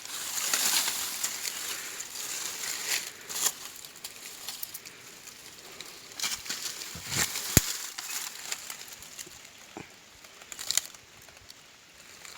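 Rustling and crackling handling noise, broken by a few sharp clicks. The sharpest click comes about seven and a half seconds in.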